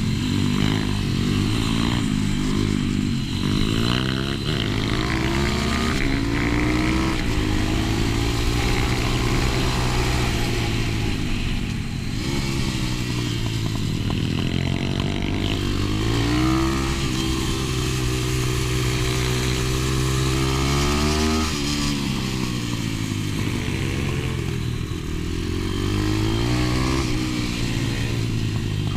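125 cc pit bike engine revving hard and falling off again over and over, the pitch climbing and dropping as it is ridden round a track through gears and corners.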